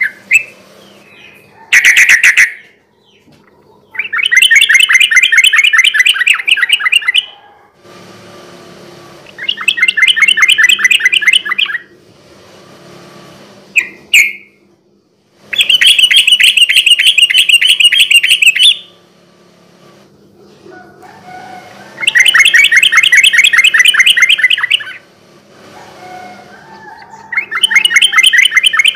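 Sooty-headed bulbul (trucukan) singing its fast rolling trill, five bursts of rapid repeated notes about three seconds each, with a couple of short single calls in between.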